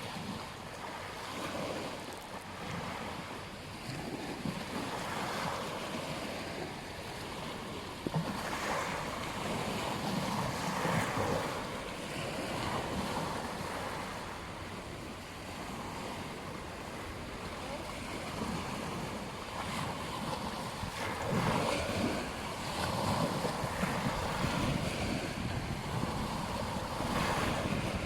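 Surf breaking and washing on a beach, swelling and easing every few seconds, with wind on the microphone.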